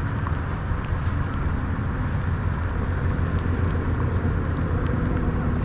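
Vehicle engine running steadily at low revs, with a steady hiss of water throughout.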